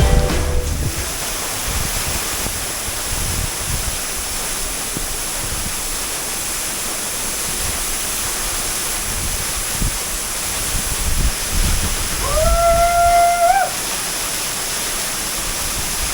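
Waterfall in spate after rain: a steady rushing roar of falling water. About twelve seconds in, a single whistled call rises and then holds for about a second and a half over it.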